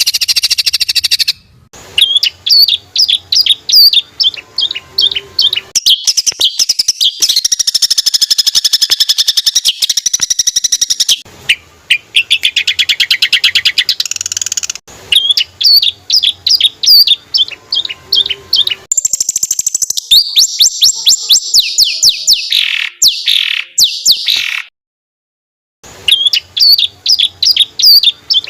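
An African songbird's rolling, rapid-fire song, looped as a training recording for songbirds to copy: runs of sharp, fast-repeated chirps alternating with long, dense trills. The song breaks off completely for about a second near the end, then resumes.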